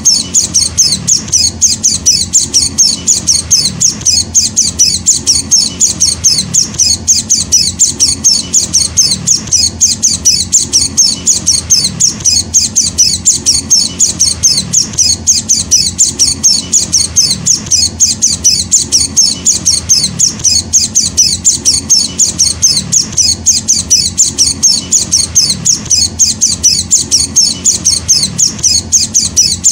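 Young white-eye (Zosterops) chick calling without pause, giving short high-pitched chirps at about four a second, the begging calls of a hand-fed fledgling.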